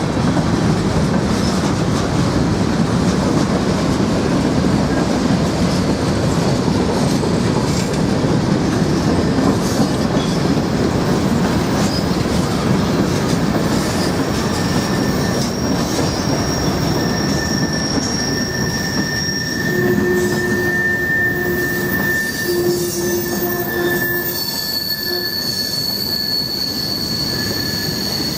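Norfolk Southern freight train rolling past with a steady heavy rumble of wheels on rail. From about halfway on, thin high-pitched wheel squeals come and go over it as the rumble eases.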